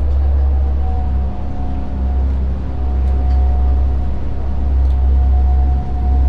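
Boat engines running at steady speed: a loud, constant low drone with a steady whine above it that sags slightly in pitch near the end.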